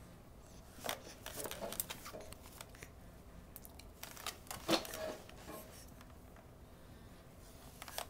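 Scattered small clicks and rattles of plastic baby toys on an exersaucer being handled, irregular and light, with a slightly louder clack just before five seconds in.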